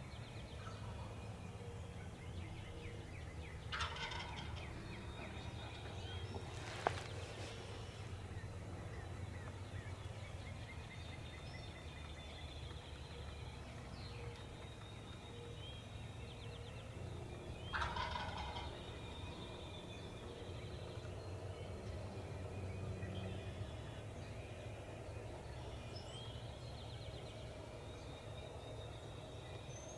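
Wild turkey gobbler gobbling twice, about four seconds in and again near eighteen seconds, over steady low background noise. A single sharp click sounds about seven seconds in.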